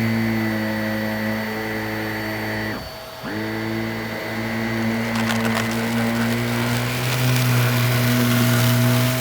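Shark Navigator upright vacuum cleaner running with a steady motor hum. About three seconds in the motor winds down and cuts out, then spins back up half a second later. From about five seconds in there is a dense crackling crunch of debris being sucked up off the carpet.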